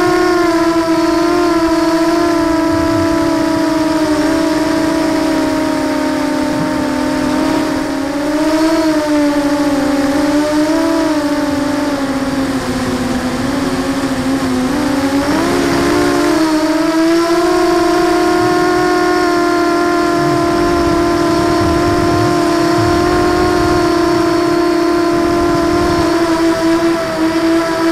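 QAV250 FPV quadcopter's brushless motors and propellers whining steadily, the pitch wavering with throttle, sagging lower midway through and rising back up.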